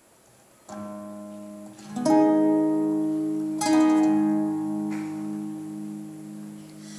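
Guitar opening a song: a soft chord about a second in, then two loud strummed chords about a second and a half apart, each left to ring and slowly fade, the low notes pulsing as they die away.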